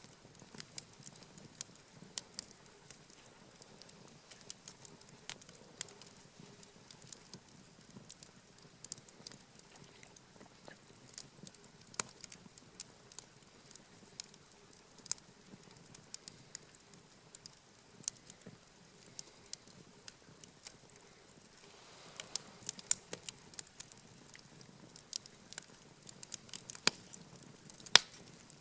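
Wood campfire crackling, with irregular sharp pops that come thicker in the last several seconds and one loud pop near the end.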